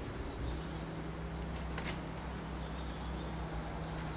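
Outdoor background with a few faint, short, high bird chirps over a steady low hum, and one brief click about two seconds in.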